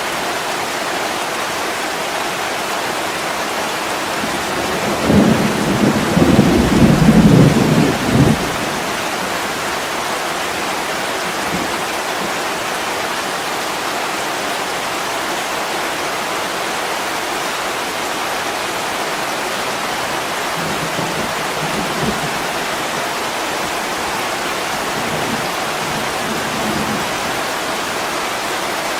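Heavy rain falling steadily on a window, an even hiss. About five seconds in, a rumble of thunder swells and lasts about three seconds, with fainter low rumbles later on.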